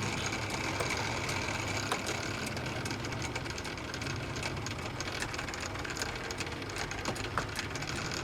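A motor-driven machine running steadily with a low hum, with scattered light clicks and ticks over it.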